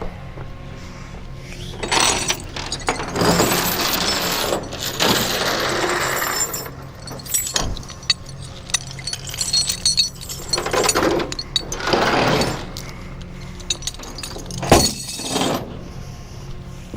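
Metal tow chains and hooks rattling and clanking in long bursts as they are handled under a car, with one sharp metallic clank near the end, over a steady low hum.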